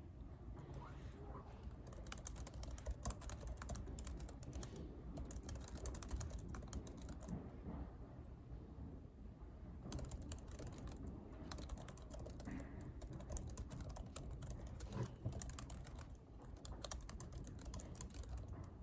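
Typing on a computer keyboard in bursts of rapid key clicks, pausing briefly about five seconds in and again for about two seconds near the middle, over a low steady hum.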